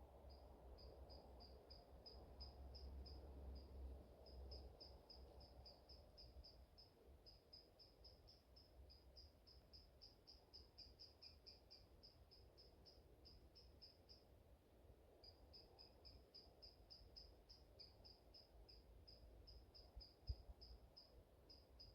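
Faint, high-pitched chirping repeated evenly about four times a second, pausing for about a second two-thirds of the way through, over a soft low wind rumble. A single sharp click near the end.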